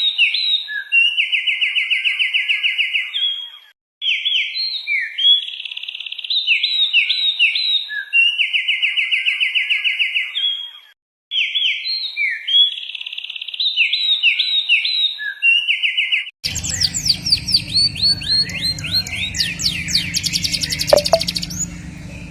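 Songbird song from an edited recording. One phrase of quick chirps ending in a steady trill is repeated identically three times with short gaps. About sixteen seconds in, a different recording takes over, with a low background hum under falling whistled notes and a very fast, high trill.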